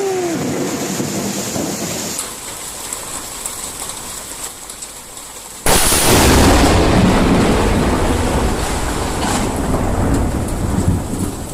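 Steady rain, then, about six seconds in, a sudden, very loud thunderclap from a close lightning strike that rolls on as heavy rumbling thunder.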